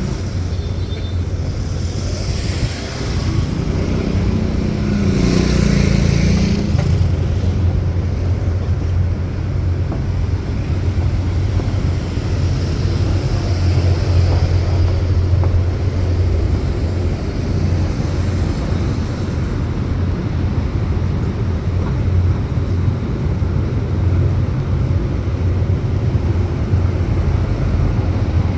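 City road traffic: vehicles passing with a steady low rumble of engines and tyres. Passing vehicles are loudest a few seconds in.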